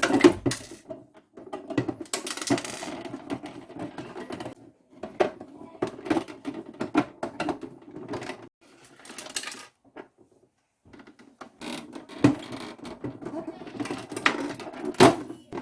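Toy washing machine being handled and worked on: irregular clicks, knocks and rattles of small plastic and metal parts, with a short pause about ten seconds in.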